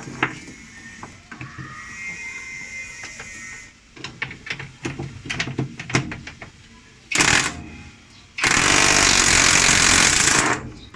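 Power tool hammering at the center nut of an LG top-load washing machine to undo it: scattered metal clicks and knocks of the socket being fitted, then a short burst about seven seconds in and a steady burst of about two seconds near the end.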